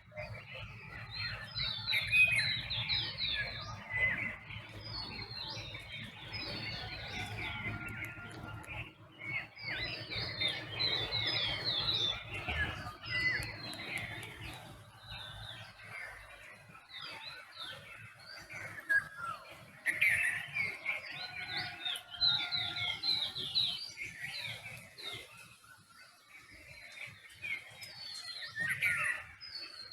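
Dawn chorus of several songbirds, with short chirps, trills and whistled calls overlapping throughout. A faint low rumble lies under the first half.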